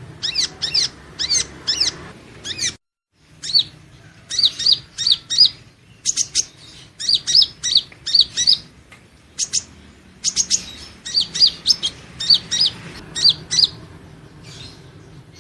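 Purple-throated sunbird calling: quick runs of short, high, sharp chirps, three to five notes at a time, broken by a brief silent gap about three seconds in.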